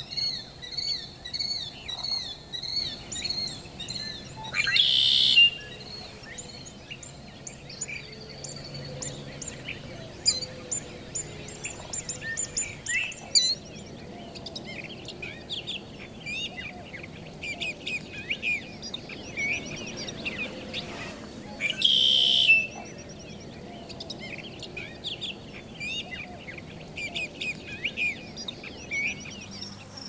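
Several birds calling and singing at once in a marsh: quick repeated chirps and trills, and a loud harsh call about five seconds in and again about twenty-two seconds in.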